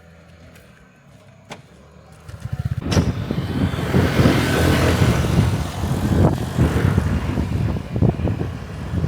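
Motor vehicle engine running close by, with road and wind noise. A faint low hum for the first couple of seconds, then it grows loud about two and a half seconds in and stays loud, easing slightly near the end.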